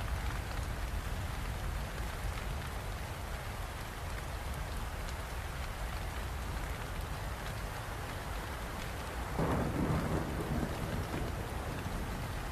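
Steady rain falling, with a low roll of thunder swelling up about nine seconds in and rumbling for a couple of seconds.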